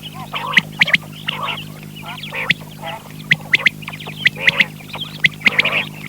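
Quail calling repeatedly in quick clusters of short, sharp notes, over a steady low electrical hum.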